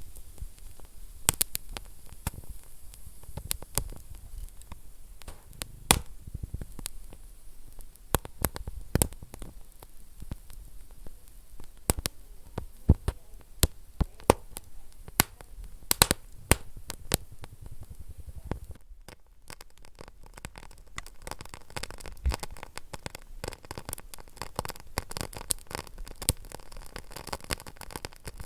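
Wood fire burning in a fireplace, crackling with irregular sharp pops over a low hiss. About two-thirds of the way through, the crackle turns suddenly denser and finer.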